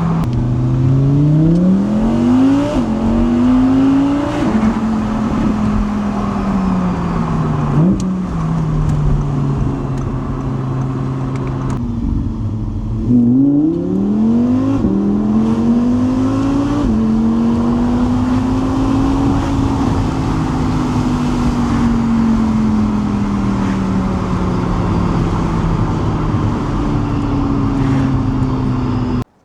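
Audi R8 engine accelerating hard through several gears, its pitch climbing and then dropping sharply at each upshift, followed by a longer stretch where the revs slowly rise and fall. The sound cuts off suddenly just before the end.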